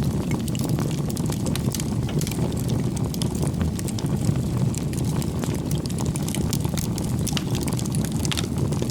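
Wood campfire burning: a steady low rush of flames with frequent small crackles and pops from the burning firewood.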